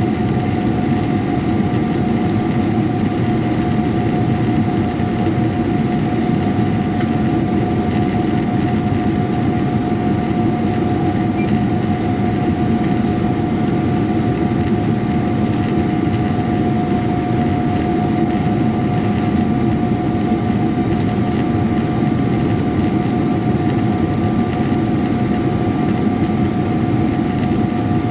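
Boeing 777-300ER's GE90 turbofan engines and rushing air heard from inside the passenger cabin: a steady loud hum with a constant engine whine over it.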